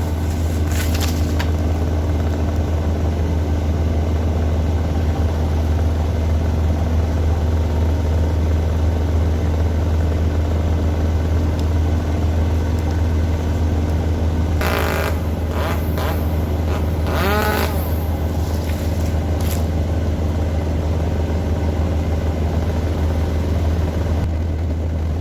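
An engine of tree-work machinery running steadily at a constant speed. About halfway through come a few short, high squeaks and scrapes.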